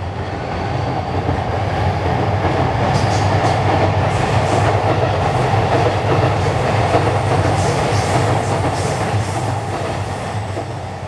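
Chuo Line electric commuter train running past on the elevated viaduct: a steady rumble of wheels on rail that builds up over the first couple of seconds, holds, and eases off a little near the end.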